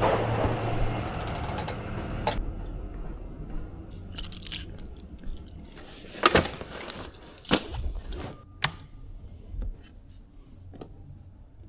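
A vehicle running at first, its noise dropping away about two seconds in. After that come a handful of scattered knocks and metallic clinks.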